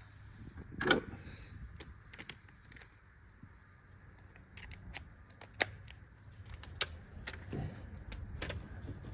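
Scattered metallic clicks and clinks of a hand wrench and tools knocking against engine hardware while reaching for a stud from under the truck, with one sharper knock about a second in.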